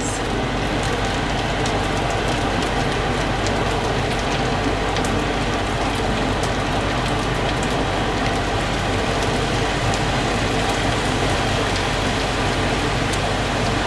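Rice and egg frying in a pan: a steady sizzle with scattered small pops.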